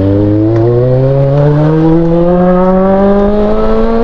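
Honda CB400 Super Four inline-four motorcycle engine accelerating steadily in one gear, its pitch rising smoothly throughout.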